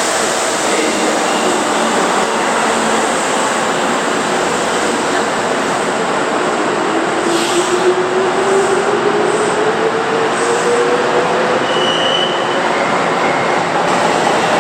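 Kintetsu 20000 series 'Raku' electric train running on the rails, a loud steady rumble of wheels and running gear, with a tone that rises steadily in pitch through the second half as it speeds up.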